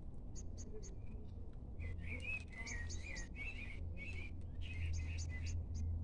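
Birds singing outdoors: quick high chirps in short runs of three, and a warbling song from about two seconds in until near the end. A low steady rumble runs underneath.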